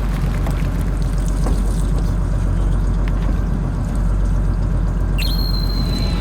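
Fishing boat's engine running with a steady low rumble, with water noise. About five seconds in, a steady high electronic tone sets in.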